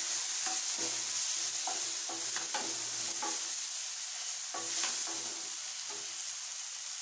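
Chopped onion, tomato and green chillies frying in oil in a non-stick pan with a steady sizzle, stirred with a wooden spatula that scrapes the pan in short, irregular strokes.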